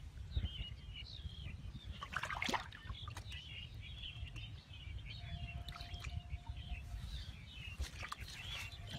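Birds chirping continually in short wavering calls, over a low rumble of outdoor noise. A short rush of noise comes about two seconds in, and a faint steady tone sounds for about two seconds near the middle.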